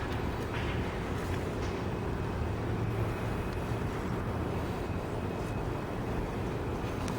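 A 42-inch live-steam model boat with a Bassett-Lowke engine running under steam on the water: a steady low rumble and hiss with a few faint clicks.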